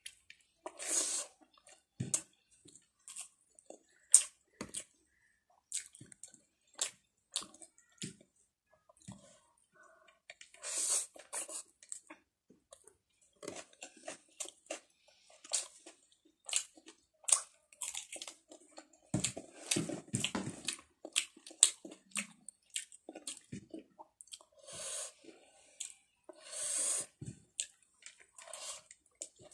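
A person eating rice and vegetables by hand close to the microphone: chewing and lip-smacking in irregular short clicks, with a few longer wet mouth noises.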